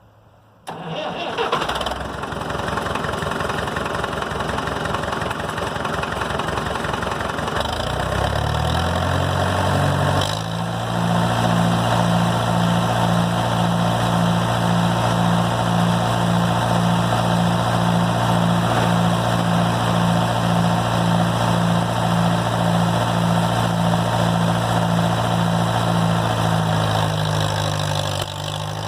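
Tractor engine starting about a second in, then brought up to speed around ten seconds in and running hard with a steady, even beat, working under load to pull the stuck tractor out on tyres chained with wood.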